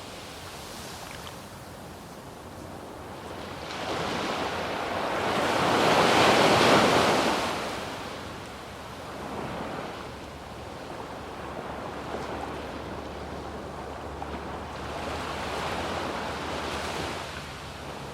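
Surf breaking and washing up a sandy beach. One wave swells to a loud rush about six seconds in and fades, and smaller washes follow. Light wind noise on the microphone.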